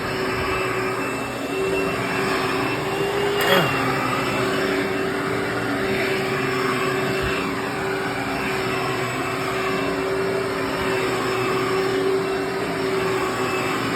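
Hoover WindTunnel Anniversary Bagless Twin Chamber upright vacuum cleaner running steadily across the floor, its motor giving a steady hum with a thin high whine over the rush of airflow. A brief sharp click about three and a half seconds in.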